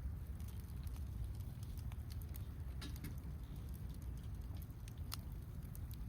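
Wood campfire crackling, with scattered small ticks and a few sharper pops, the clearest about three and five seconds in, over a steady low rumble.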